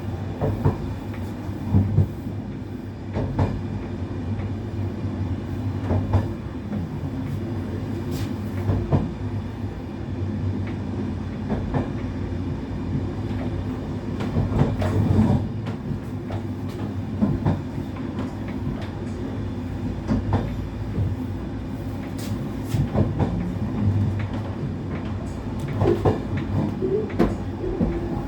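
Passenger train running along the track, heard from inside the carriage: a steady low rumble and hum with frequent irregular knocks and clacks of the wheels over rail joints.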